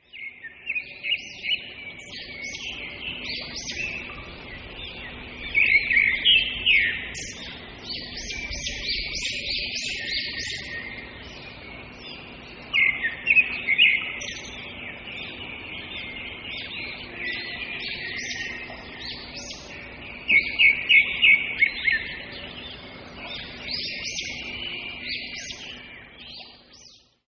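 Small birds chirping and twittering, many short calls overlapping, with louder bursts of rapid chirps now and then, over a faint steady hum.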